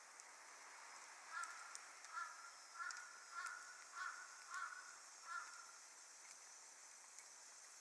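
A crow cawing seven times in a steady run, about one caw every 0.65 s, with faint crackling from the wood fire under it.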